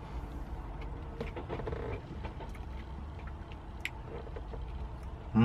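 Steady low hum of a car engine idling, heard from inside the cabin, with small scattered clicks. Right at the end a loud vocal sound with falling pitch starts.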